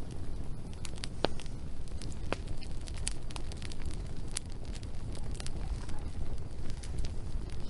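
Wood fire burning, with a steady low rumble and scattered sharp crackles and pops of burning logs.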